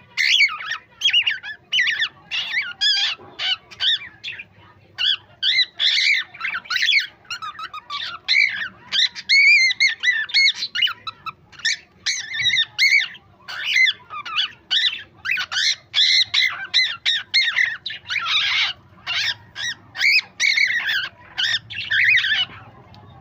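Pet cockatiel chattering: a long run of short, rapid squawks and warbling chirps, broken by a few brief pauses.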